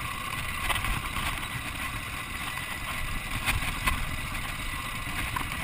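Dirt bike engine running at low throttle while riding over rough trail, with rumble and a few short knocks.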